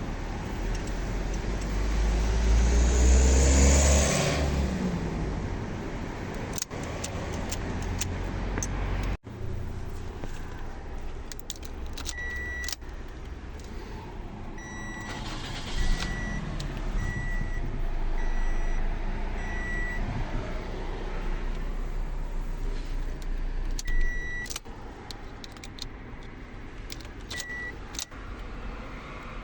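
A 2008 Toyota Corolla's engine starting, revving up briefly a couple of seconds in, then running at idle. Keys click and jangle, and a high electronic warning beep from the car repeats about once a second for a stretch in the middle and again near the end.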